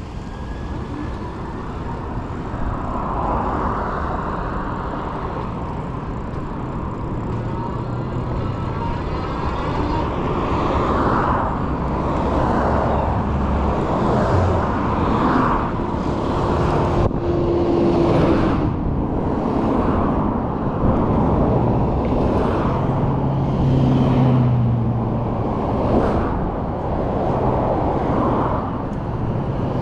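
Street traffic heard from a moving e-bike: cars passing over a steady road noise that slowly grows louder and swells roughly once a second in the second half.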